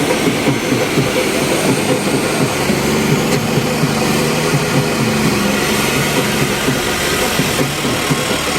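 John Deere 5210 tractor's diesel engine running loudly with a steady, rapid chugging.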